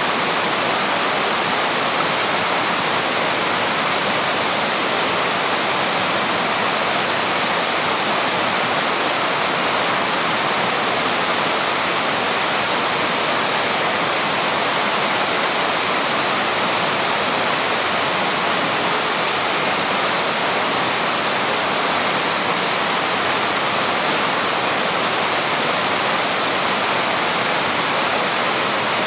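A small waterfall splashing: a steady rush of falling water, even and unchanging.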